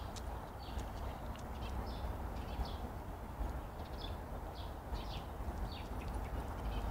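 Small birds chirping in short, high notes about once or twice a second, over a steady low rumble.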